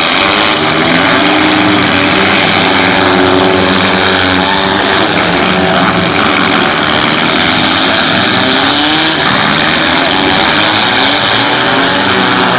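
Several demolition derby cars' engines running and revving at once: a loud, steady din whose engine pitches keep rising and falling.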